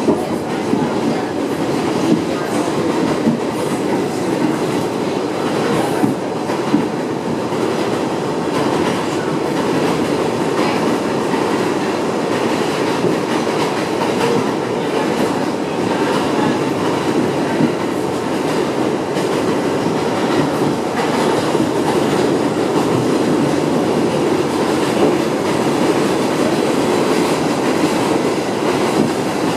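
R62A subway train running at speed, heard from inside the car: a steady rumble of steel wheels on the rails with a few sharp clicks.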